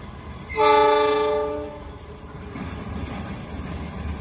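Train horn blasting once for about a second, starting just over half a second in, over a low rumble.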